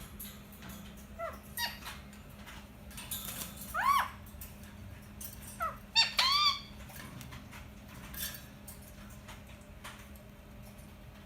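Indian ringneck parakeet giving a few short, arched chirping calls, the loudest about four and six seconds in, with faint clicks in between.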